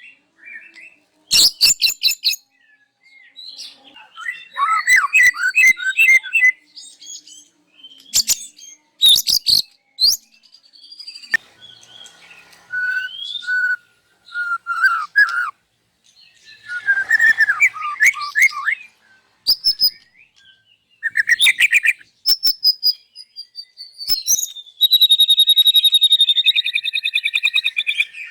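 White-rumped shama singing loudly, a varied run of sharp rattling calls, warbled phrases and clear whistles as it works through its repertoire of learned songs. Near the end comes a falling whistle and then a long, ringing trill.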